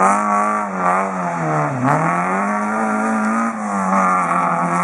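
Rally car engine at high revs on a stage, its pitch climbing under throttle and dropping sharply at gear changes, once just under two seconds in and again about three and a half seconds in.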